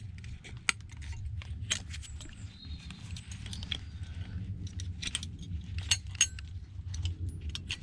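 Irregular small metal clicks and clinks of screwdriver and loose parts while an old analogue electricity meter is dismantled, over a low steady hum.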